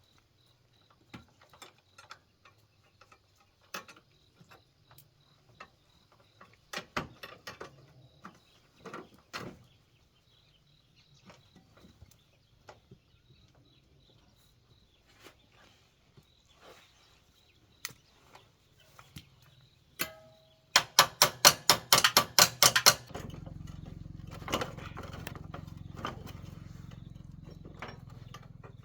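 Scattered clicks and knocks of hand tools working on a motorbike wheel. About 21 seconds in comes a quick run of loud ratchet-like clicking lasting about two seconds, followed by a steady low hum.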